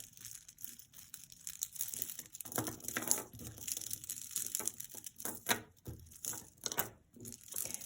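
Crinkling and rustling with irregular light clicks: jewelry being handled, a long rosary with big wooden beads being picked up and laid out.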